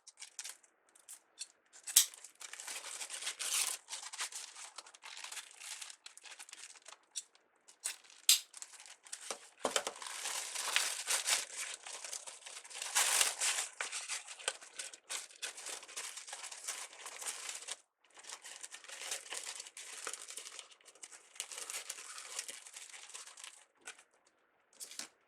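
Deco mesh and ribbon being handled and worked into a wreath, crinkling and rustling in irregular bursts, with a few sharp clicks.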